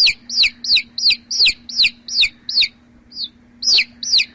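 Baby chick peeping: a quick run of short, high, downward-sliding cheeps, about three a second, with a brief break midway before they resume.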